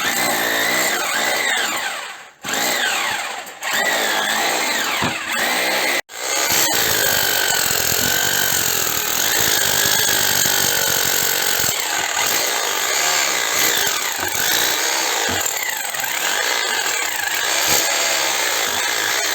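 Rotary hammer with a flat spade chisel bit running hard, chipping a thick layer of old clay plaster off a brick fireplace. The motor's pitch wavers under load, and it stops briefly twice within the first six seconds before running on steadily.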